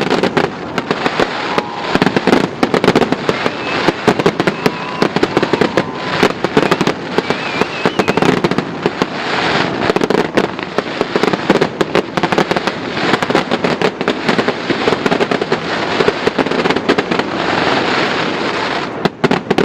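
Fireworks going off in a dense, continuous run of rapid pops and crackles, loud throughout and ending abruptly near the end.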